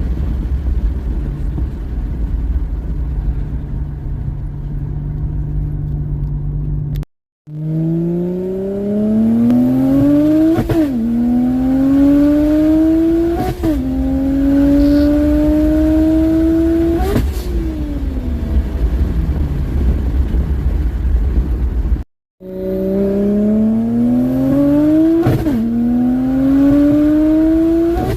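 BMW N54 inline-six with a big single turbo at full throttle, the revs climbing hard and dropping sharply at each manual upshift about every three to four seconds. Before this the engine gives a steady low rumble at cruise, and after the run the revs fall away before a second pull starts.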